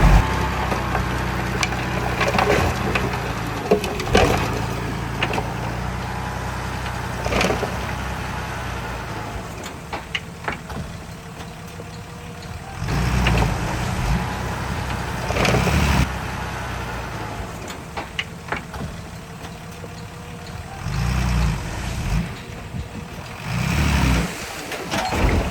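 Heavy diesel earth-moving machinery running, its engine idling and rising in several loud surges under load, with scattered metal clanks.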